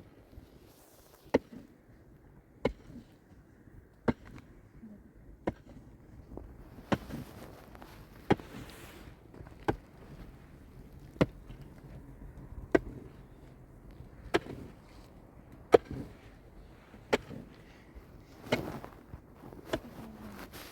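Repeated sharp blows, about one every second and a half, with scraping and rustling between them, like a hand tool being struck again and again in steady work.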